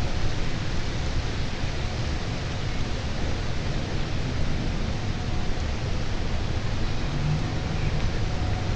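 Steady outdoor hiss of rain with a low rumble underneath. A faint low hum comes in about seven seconds in.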